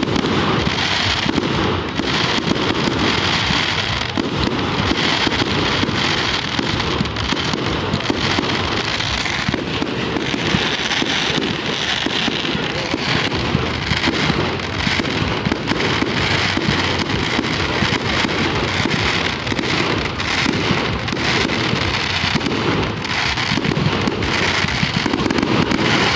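Fireworks display going off as a dense, continuous barrage of aerial shells bursting and crackling. The reports follow each other so fast that they merge into one unbroken racket with no pauses.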